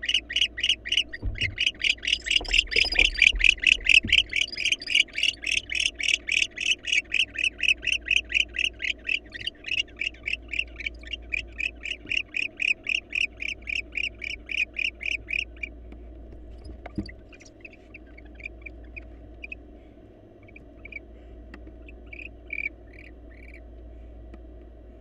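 Barn owl calling in a fast, steady series of short harsh notes, about five a second, for about fifteen seconds, with a few dull thumps in the first seconds. After that only a few scattered short calls remain.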